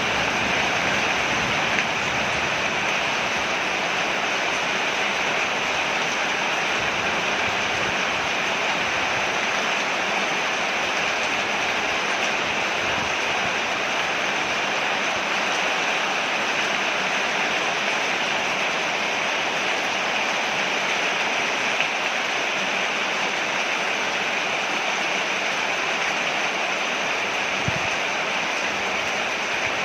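Rain falling steadily on a porch, an even unbroken hiss with no change in strength.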